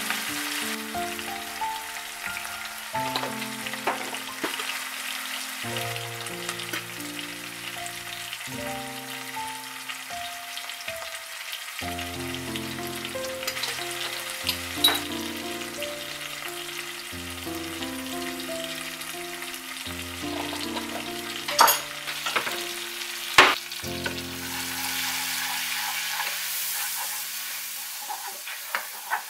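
Sliced onions and ground spices sizzling in hot mustard oil in a pot, with a few sharp knocks about three-quarters of the way through and a louder stirring sizzle near the end as a wooden spoon works the spices in. Soft background music with steady notes plays underneath.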